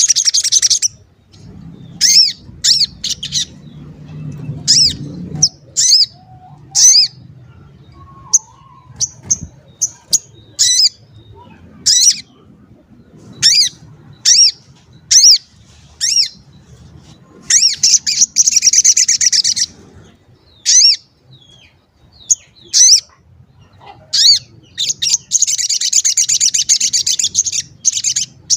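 Crimson sunbird (sogon) singing: a run of sharp, high 'cuit cuit' chirps, each a quick curved note with short gaps between. About eighteen seconds in comes a brief buzzy, rapid trill, and a longer one starts about twenty-five seconds in.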